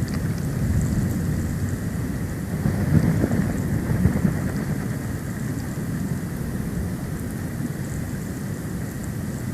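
Snowstorm wind buffeting the nest camera's microphone: a steady low rumble that swells in gusts, loudest about three and four seconds in.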